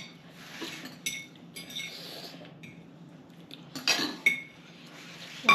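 Cutlery clinking against dishes, with two sharper clinks about four seconds in and at the end.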